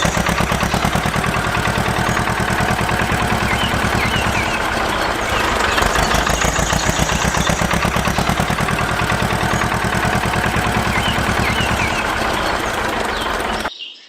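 Small engine running steadily with rapid, even firing pulses, then cutting off abruptly near the end.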